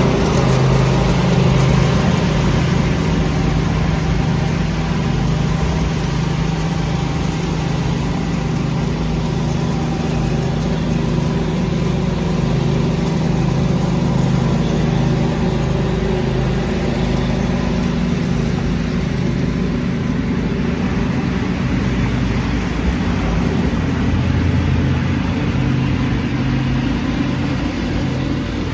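A lawn tractor's engine running steadily at a constant speed while vacuuming leaves, with a steady whoosh of noise over the engine.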